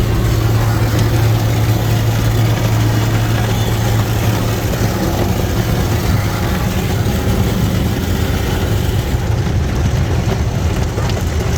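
Automatic car wash machinery running around the car, heard from inside the cabin: a loud, steady low hum under an even rushing noise.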